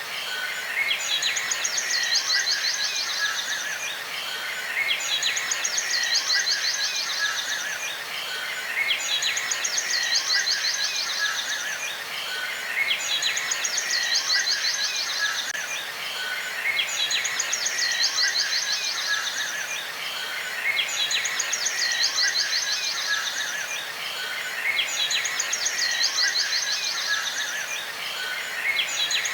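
Outdoor nature ambience: a high, rapid trill of about two and a half seconds repeats about every four seconds over a steady hiss.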